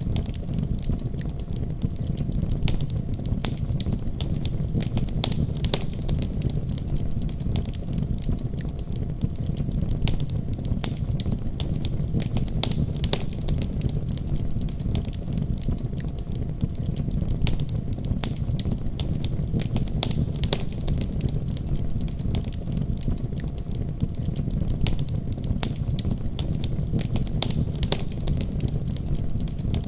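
Fireplace fire burning: a steady low rumble of flame with frequent sharp crackles and pops.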